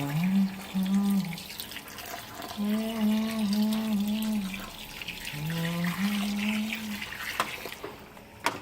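Water running and splashing as sand is wetted in a clay pot. A low hummed tune steps between two notes in several stretches over it.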